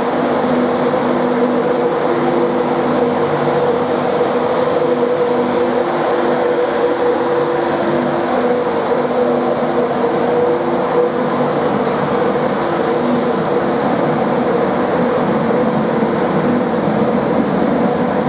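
Class 91 electric locomotive running past along the platform with a steady hum of several held tones over the rumble of its wheels. After about twelve seconds the hum fades and the steady rumble of Mark 4 coaches rolling by goes on.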